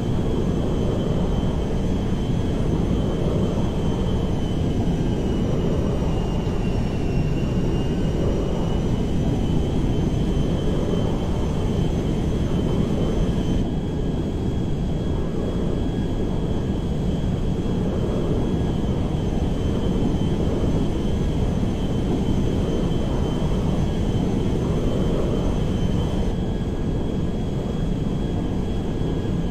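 Airplane engines running, a steady dense rush with a thin high whine on top. The whine sags slightly in pitch about seven seconds in and then comes back up.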